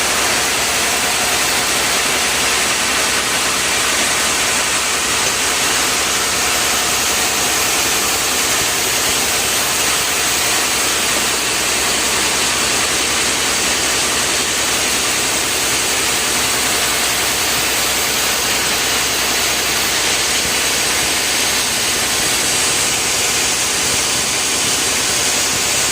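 Loud, steady machine noise, a motor running without change in speed throughout.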